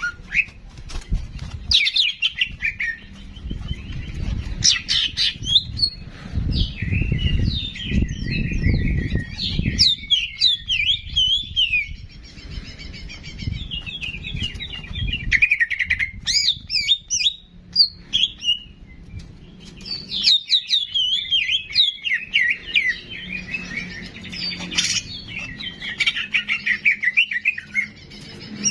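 A songbird singing in long runs of rapid twittering chirps, with short pauses between phrases. A low rumble sits under the song in the first third.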